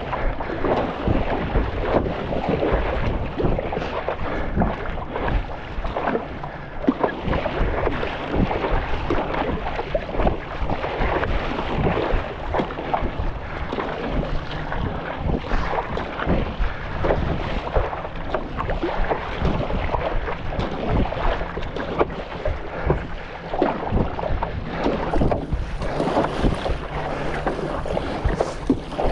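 Wind buffeting the microphone over water splashing and slapping around a stand-up paddleboard on choppy sea, with a steady stream of irregular splashes.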